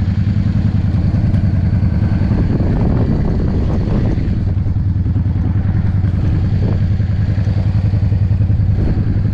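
Yamaha V-Star motorcycle's V-twin engine running steadily under way, with strong wind rushing over the microphone.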